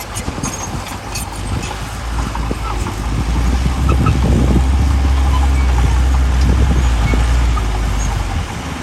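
Heavy diesel engine of earthmoving machinery running with a deep, steady drone. It grows louder about three seconds in, holds, then eases off near the end. Scattered clanks are heard early on.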